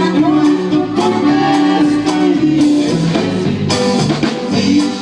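Norteño band playing live, with held melody notes over a steady drum beat.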